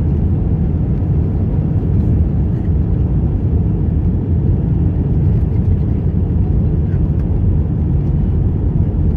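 Steady, loud cabin noise of an Airbus A321 airliner heard from inside: engine drone and airflow, deep and even throughout.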